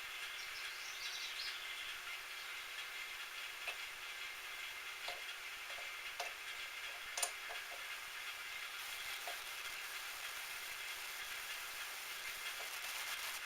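Small metal lathe running steadily, with a few light metallic clicks in the middle, the sharpest about seven seconds in.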